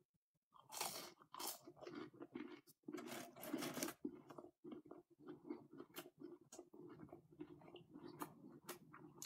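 Close-up crunching and chewing of a crispy breaded chicken nugget being eaten: the bite and the loudest crunches come about a second in, then the chewing goes on softer and more sparsely.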